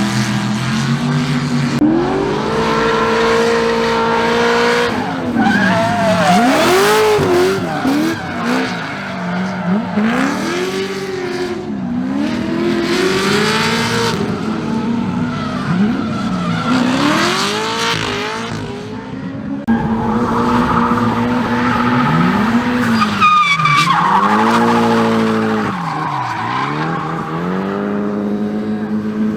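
Car engine revving up and down over and over with tyres squealing and skidding, as a drift car slides.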